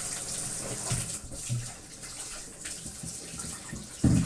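A tap running into a small sink, the water splashing over a vacuum cleaner part being washed. A few soft knocks and one loud thump near the end, as of the part striking the sink.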